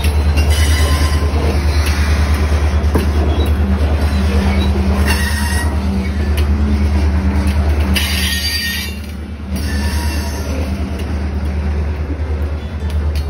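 Freight train of tank cars rolling slowly past at about 5 mph: a steady low rumble of steel wheels on the rails, with a few brief high-pitched wheel squeals.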